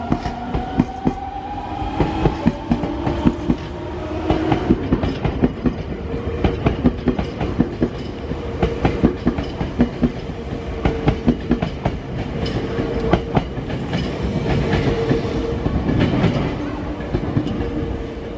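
Nankai 1000 series electric train running along the track, its wheels clicking over rail joints in an irregular clatter, with a steady motor whine setting in about a third of the way through.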